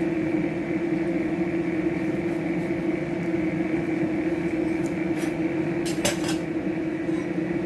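A steady machine hum holding one constant tone, with a few short clicks about five and six seconds in.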